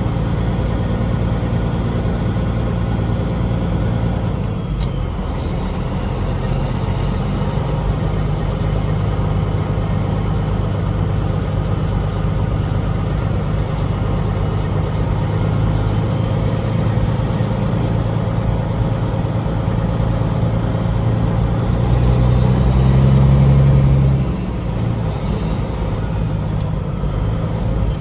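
Semi truck's diesel engine and road noise while driving, a steady low drone. It grows louder for about two seconds a little past two-thirds of the way through, then settles back.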